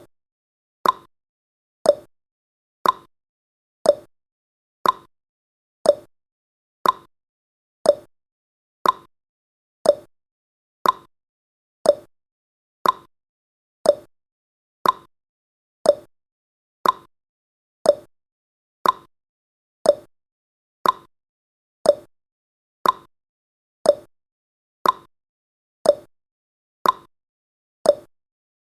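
Countdown timer's tick sound effect: one short, sharp click every second, perfectly evenly spaced.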